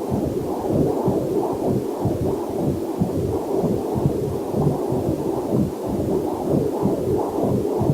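Muffled, rapid rhythmic whooshing pulse as heard through a fetal Doppler heart monitor, with a faint waterfall mixed in underneath.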